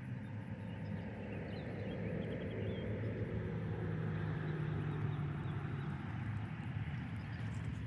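A steady low motor hum that swells to its loudest about five seconds in, then eases off, with a few faint chirps early on.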